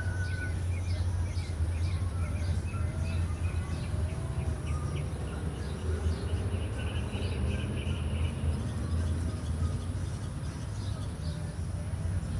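Several birds chirping in short quick calls and trills, with a few higher whistled notes, over a steady low rumble.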